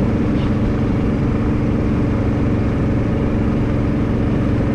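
Motorboat engine running at a steady speed, heard from aboard the boat, with a constant low drone and no change in pitch.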